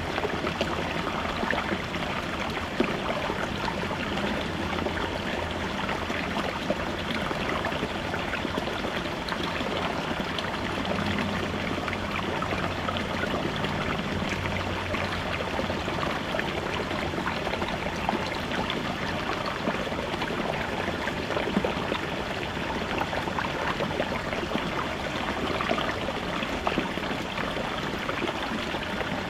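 Small babbling brook flowing over rocks: a steady, unbroken babble and rush of water.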